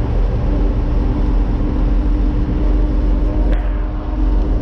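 Backhoe loader's diesel engine running steadily with a low rumble and a steady hum. A single sharp click about three and a half seconds in.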